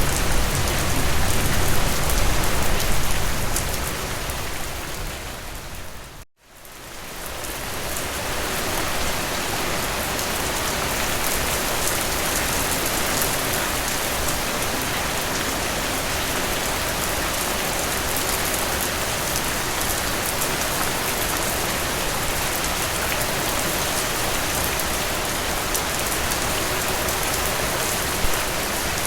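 Steady rain falling, an even patter with no single drops standing out. About six seconds in it fades down to a moment of silence, then fades back in and carries on evenly.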